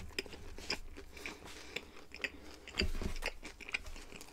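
Close-up chewing and biting of a cheese-filled wrap: soft wet mouth clicks and small crunches, with a louder bite about three seconds in.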